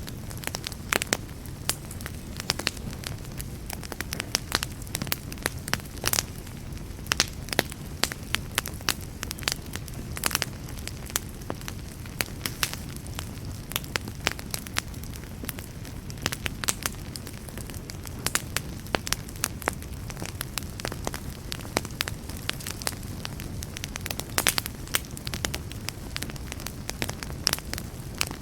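Wood fire burning, with constant irregular sharp crackles and pops over a steady low rumble of the flames.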